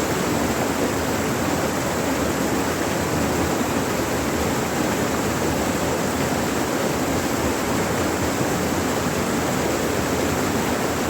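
River water rushing steadily, an even wash of noise.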